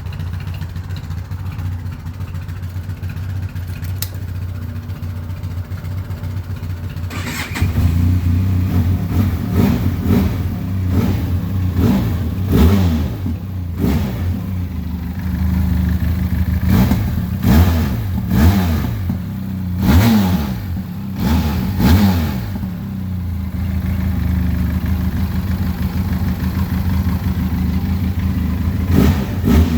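Benelli TRK 502 motorcycle's parallel-twin engine idling steadily, then revved in a series of quick throttle blips that rise and fall in pitch, dropping back to idle between them. The blipping starts about a quarter of the way in, eases off for a few seconds, and returns near the end.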